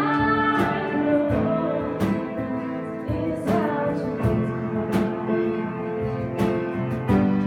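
Live worship music: an acoustic guitar strumming chords under a held, slow sung melody.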